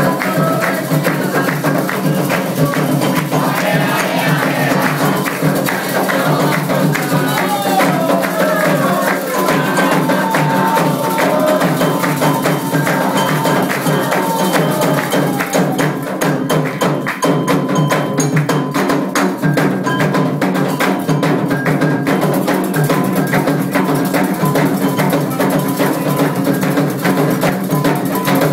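Candomblé ritual drumming: atabaque hand drums playing a fast, steady toque with a struck metal agogô bell, and voices singing over it in the first half.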